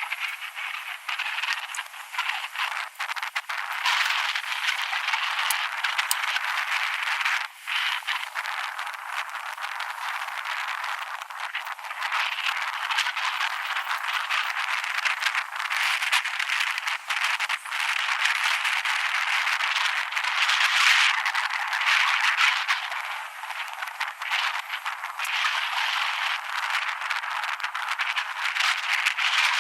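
Wind buffeting the microphone while riding, a rough, rattling roar that flickers up and down.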